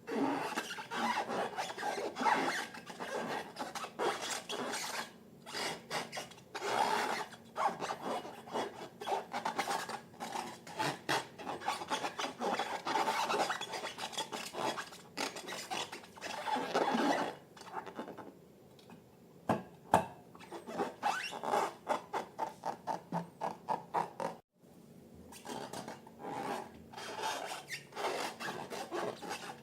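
Scraping and rubbing strokes from slime being worked by hand, irregular for most of the time, with a run of quick even strokes, about three a second, a little past two-thirds through.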